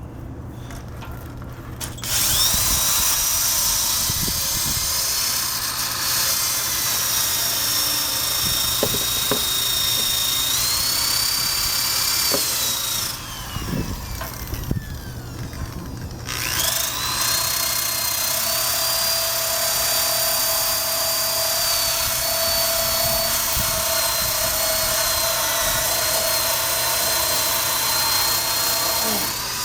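Power drill spinning a wire brush against the metal undercarriage to scrub off rust and paint: a high motor whine over scratchy scraping. It runs about ten seconds, winds down, and starts again a few seconds later for another long run.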